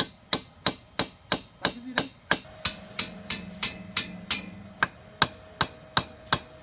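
Steady, evenly paced hammering, about three sharp blows a second. A faint steady hum comes in partway through.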